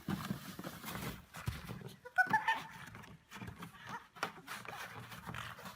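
A short animal call about two seconds in, among scattered knocks and bumps.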